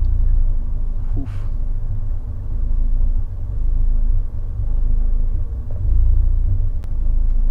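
1.4-litre MultiAir turbo four-cylinder of a 124 Spider idling roughly, a low rumble that swells and sags every second or two. It is a stumbling idle with engine load swinging from about 23 to 40, which the owner is chasing as a cylinder 4 misfire.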